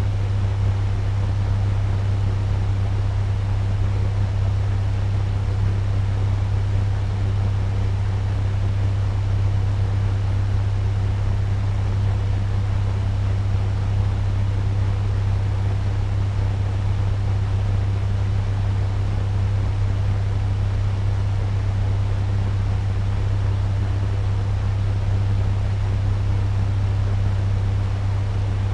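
Turbo fan running steadily at medium speed: an even rush of air over a strong low motor hum.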